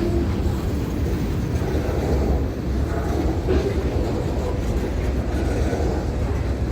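Freight train rolling by: a steady low rumble of wheels on rail.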